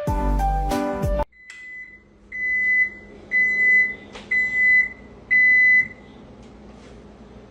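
Music cuts off about a second in. Then an electronic beeper sounds five times, about one beep a second, each a short steady high tone, over a faint low hum.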